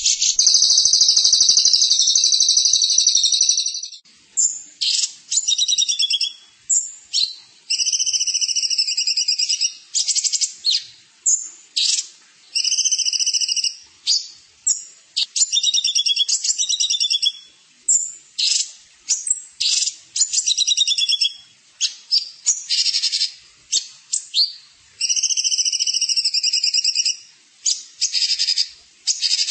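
Songbird singing rapid, high-pitched trills and buzzy phrases: one long trill for the first few seconds, then short bursts of song about a second long, separated by brief pauses.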